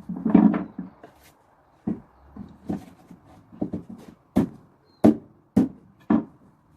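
A heavy wooden thud, then about ten sharp knocks on wood at uneven intervals, roughly two a second: parts of a live-edge slab stand being knocked and handled during dismantling.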